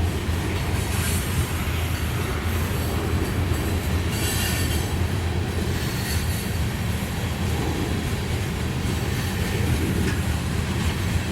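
Freight train cars rolling past on the rails: a steady, heavy rumble, with a high wheel screech that rises and falls, loudest about four seconds in.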